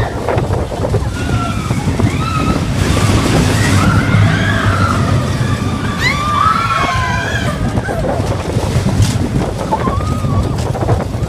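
Mine-train roller coaster rumbling along its track in a steady, loud wash of noise, with high voices calling out over it now and then.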